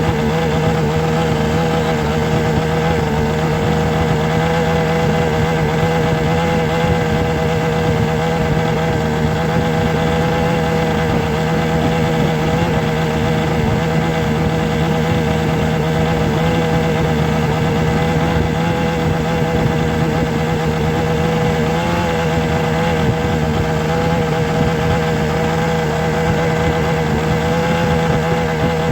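A motor humming steadily at a constant pitch, with a slight wobble and no breaks.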